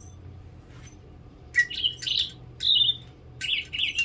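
Digibird electronic toy bird chirping through its small speaker: after a quiet start, a run of quick warbling chirps begins about a second and a half in.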